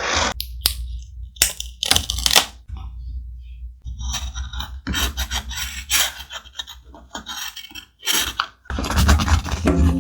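Thick paper being handled for a scrapbook page, crinkling and scraping in irregular bursts of rustling strokes.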